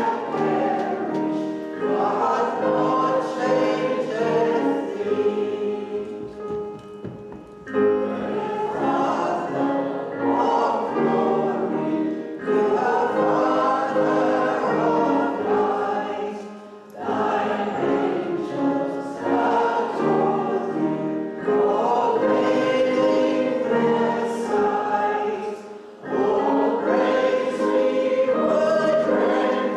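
Choir singing a worship song, phrase by phrase, with brief breaks between lines about every four to five seconds.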